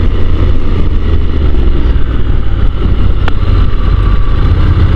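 Honda NC750 DCT parallel-twin engine running steadily under way, heard from the rider's seat with a low rumble of wind. A brief sharp click about three seconds in.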